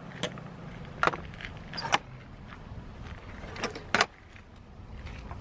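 Low steady rumble of a car with several sharp clicks and knocks scattered through it, the loudest about four seconds in.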